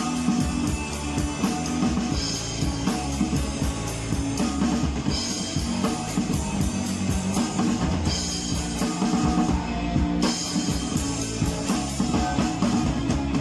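Rock band playing an instrumental passage with a driving drum kit and guitar between sung verses.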